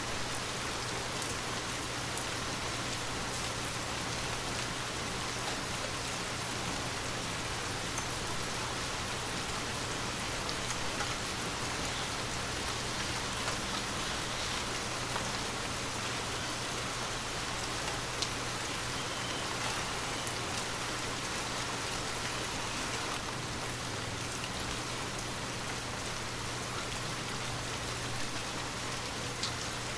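Steady rain falling and pattering on surfaces, with a few scattered drip ticks and a constant low hum underneath.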